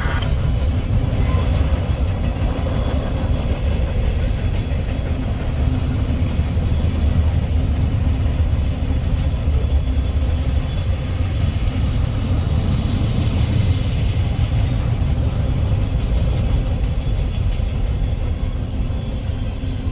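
Freight train cars rolling past, including tank cars: a steady rumble and clatter of steel wheels on rail.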